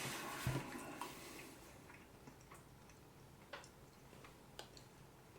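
Faint small handling noises: a soft thump about half a second in, then a few scattered light clicks over quiet room tone.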